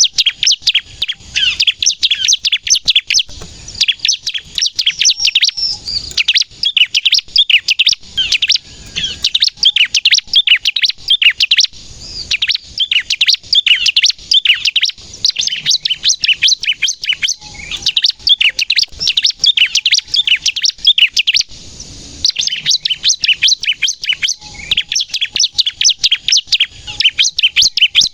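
Bar-winged prinia (ciblek) singing continuously in long runs of rapid, sharp, high chirps, breaking off briefly twice.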